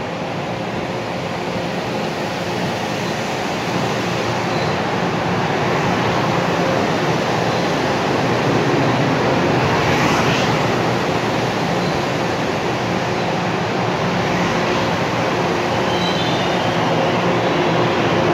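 Long Island Rail Road M3 electric multiple-unit train rolling along the platform, a steady rumble of wheels and motors that builds gradually. A few brief, faint high squeals come in near the end.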